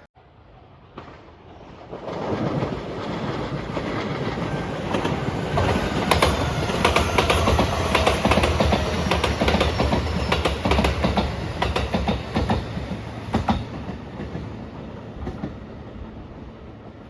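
A train passing close by. The rumble of wheels on rail swells about two seconds in, with a rapid run of wheel clacks over rail joints, then slowly fades.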